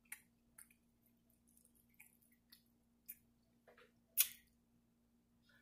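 Quiet chewing and scattered mouth clicks while eating, with a sharper click about four seconds in as a fork works in a glass bowl of collard greens.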